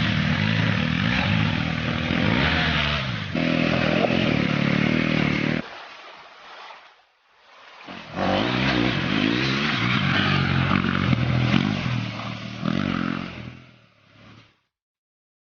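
Husqvarna Svartpilen's single-cylinder engine and exhaust running under changing throttle, its pitch rising and falling. The sound drops away abruptly about five and a half seconds in, comes back about two seconds later, and fades out shortly before the end.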